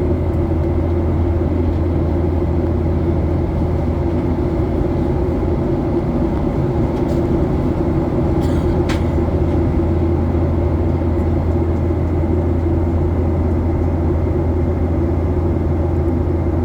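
Steady cabin drone of a Boeing 737-800 in climb: its CFM56-7B turbofans and the airflow over the fuselage make a constant low hum. A faint click sounds about halfway through.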